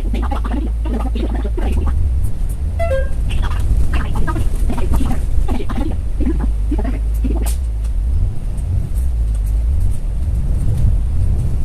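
On-board sound of a Kowloon Motor Bus running in service: a steady low engine drone with irregular rattles and knocks from the cabin. About three seconds in there is a brief falling chime-like tone.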